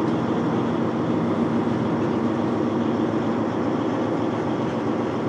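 Semi truck's diesel engine running steadily, heard inside the cab as an even drone with the rumble of the truck moving slowly.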